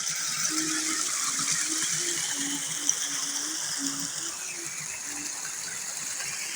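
Water gushing and rushing steadily, as from a flowing stream, with short low hums and one small click heard over it.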